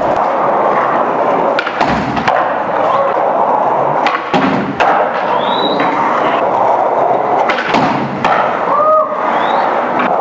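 Skating on rails and a box: wheels rolling steadily, broken by repeated sharp thuds and clacks of take-offs, landings and grinds, with a few brief squeaks.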